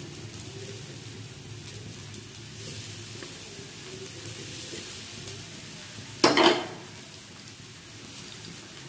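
Banana pieces sizzling in ghee on a flat nonstick pan, a steady low frying hiss with faint crackles as more pieces are laid in. About six seconds in comes a short, loud burst of noise, half a second long.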